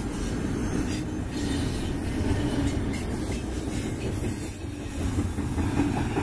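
Double-stack container well cars of a freight train rolling past, a steady rumble of steel wheels on the rails.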